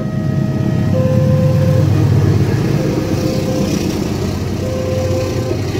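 Diesel locomotive and passenger coaches rolling past over a level crossing: a heavy, low engine and wheel rumble, loudest in the first half. The crossing's warning alarm keeps sounding over it in repeated tones.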